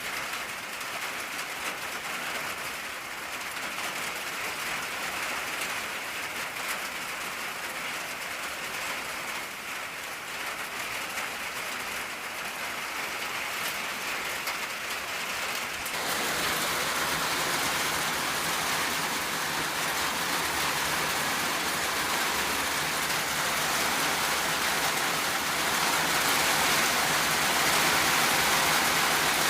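Steady rain drumming on an old tin roof, as a dense even patter that turns suddenly louder and heavier about halfway through.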